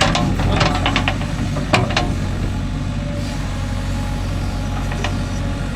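JCB 3DX backhoe loader's diesel engine idling steadily, with a few sharp clicks in the first two seconds and one more near the end.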